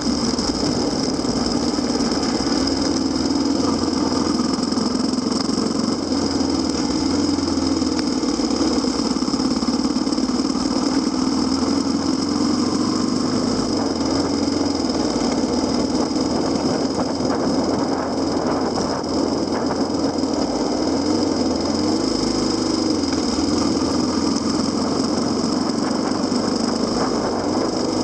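Kawasaki KLX250SR motorcycle's single-cylinder four-stroke engine running steadily, its pitch wavering only slightly.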